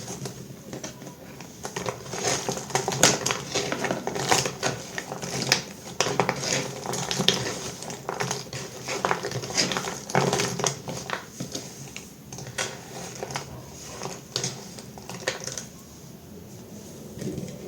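Knife cutting through soap: a dense run of crisp crackling clicks and scrapes, thinning out near the end.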